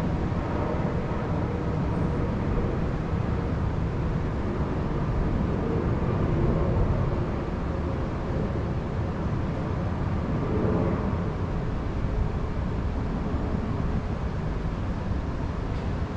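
Steady low outdoor rumble with no distinct events: wind noise mixed with a faint distant hum.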